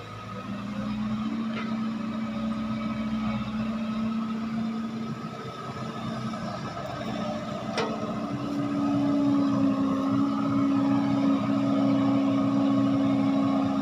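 Heavy diesel machinery running steadily, its engine note climbing higher and louder about eight seconds in, with one sharp knock just before.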